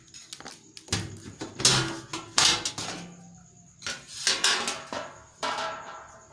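Knocks, clatter and scraping as a washing machine's body and panels are handled and moved: several sharp hits, scattered about a second apart.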